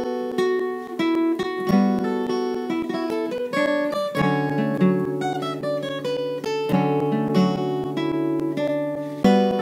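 Acoustic guitar music: plucked and strummed notes in a steady instrumental piece.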